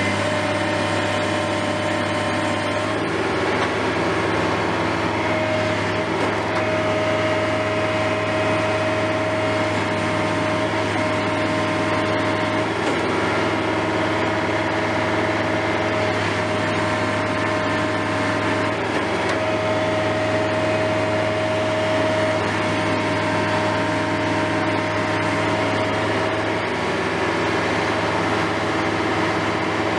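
Engine of heavy construction machinery running steadily, a continuous low drone with a whine that fades in and out.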